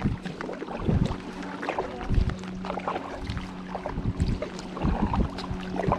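Kayak paddling: paddle blades dipping and splashing, with water lapping at the hull and irregular low thuds and wind buffeting the microphone. A steady low hum sounds underneath.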